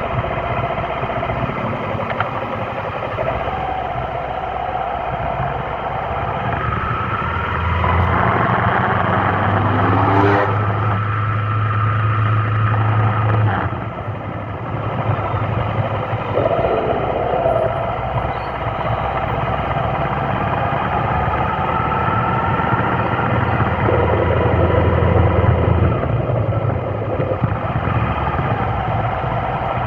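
Vehicle engines running in slow traffic: a steady engine hum with slow rising and falling engine tones.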